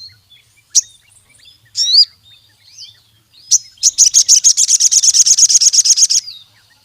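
A sogon sunbird singing: a few sharp high chips and a short rising call, then a fast ringing trill of about a dozen notes a second for a little over two seconds that stops abruptly.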